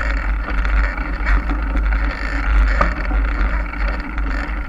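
Wind buffeting the microphone as a mountain bike rolls along a trail, a steady deep rumble with tyre noise and a few light clicks and rattles from the bike.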